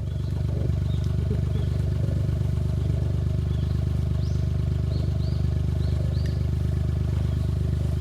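Suzuki Jimny JA11 engine running steadily at one constant speed, a low, even drone.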